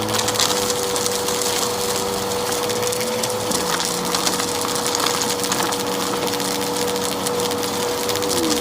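Vacuum cleaner running with a steady motor whine while crackling and crunching as it sucks up a pile of dirt and debris.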